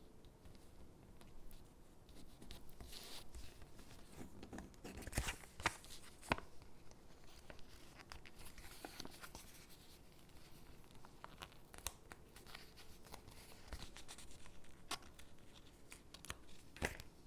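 Stickers being peeled from their backing sheet and pressed onto paper gingerbread cutouts: soft, scattered peeling, rustling and tapping, with a few sharper taps about five to six seconds in and again near the end.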